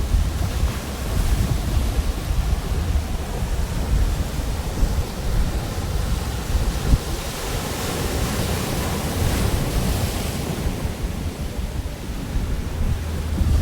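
Pacific Ocean surf breaking and washing on a beach, with wind rumbling on the microphone. The hiss of the wash swells about two-thirds of the way through, then eases.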